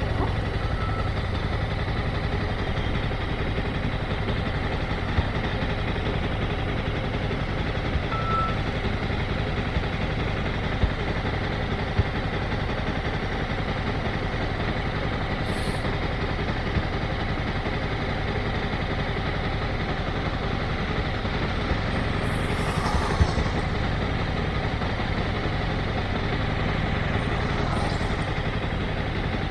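Motorcycle engine running steadily at low speed, heard close up, with a few brief high hissing puffs about halfway through and again near the end.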